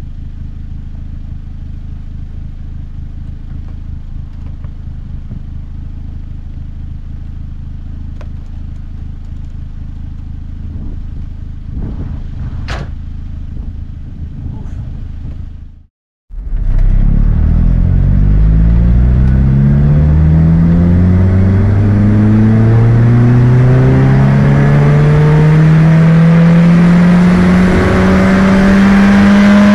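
Opel Speedster's 2.2-litre 16-valve four-cylinder idling steadily, with a single click about 13 seconds in. After a short break the engine is pulling hard under acceleration, revving up in one long, steady rise to near 6,000 rpm.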